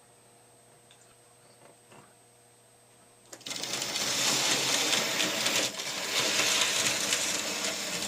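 Märklin HO model train running on metal track: a small electric motor whirring with wheels clattering on the rails, starting suddenly about three seconds in after near-quiet.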